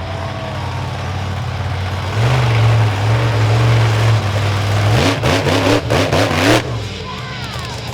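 Monster truck engine running, picking up about two seconds in, then revved in several quick rises and falls for about a second and a half before dropping back to a lower run.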